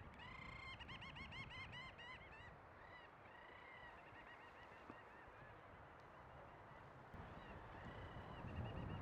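Little auks calling in their breeding colony, faint: a rapid chattering run of repeated high notes in the first couple of seconds, then scattered fainter calls.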